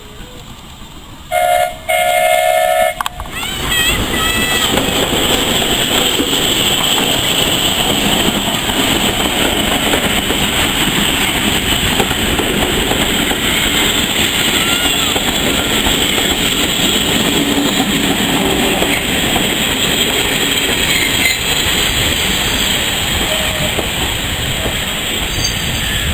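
Steam locomotive whistle sounding two blasts, the second longer, then the train running: a loud steady rumble of wheels on the rails with clickety-clack.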